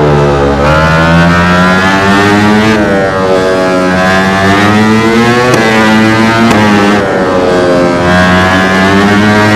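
MotoGP racing motorcycle engine at full racing revs. Its pitch climbs steeply and drops sharply several times as the rider shifts up and brakes down through the gears.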